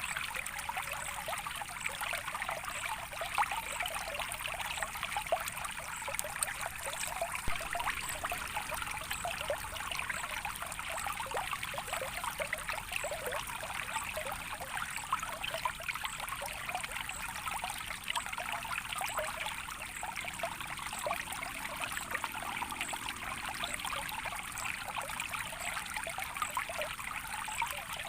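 Water trickling and splashing steadily in a small natural stream, an even, unbroken flow.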